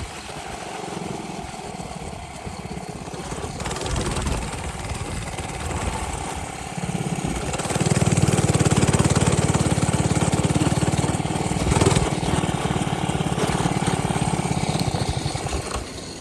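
Minibike's small engine running under way, a steady putter that grows louder about halfway through as it is given more throttle, then eases off near the end.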